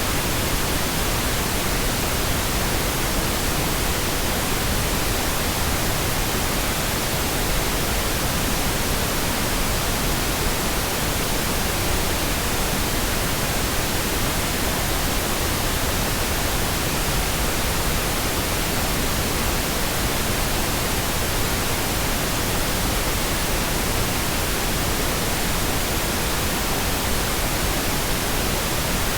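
Synthetic pink noise: a steady, even hiss spread across the whole range, unchanging throughout.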